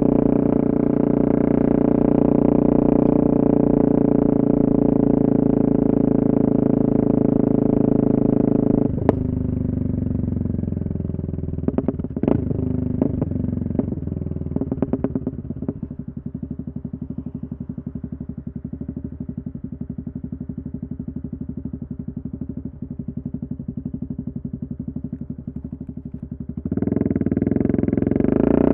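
Yamaha MT-03 660's single-cylinder engine through an open exhaust with the dB-killer removed: it runs steadily under way for about nine seconds, then drops off throttle with a few sharp pops and crackles from the exhaust. It settles to an even idle and rises loudly again near the end.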